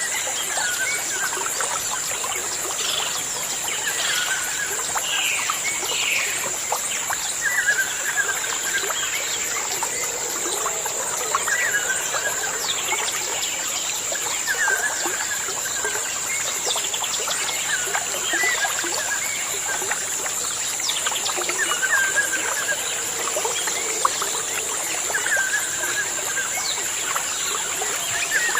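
Birds chirping: many short, repeated calls scattered throughout, over a steady high-pitched whine and an even background hiss.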